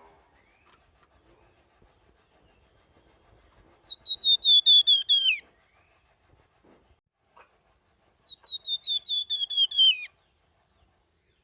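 Flamboyan songbird singing in its fluting style: two phrases of rapid repeated whistled notes, each ending in a downward slide.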